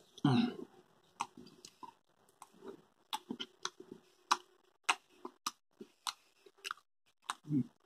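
A man chewing a mouthful of grilled sausage with his mouth closed: irregular wet mouth clicks and smacks. A muffled mouth sound comes as he bites in at the start, and a short low hum comes near the end.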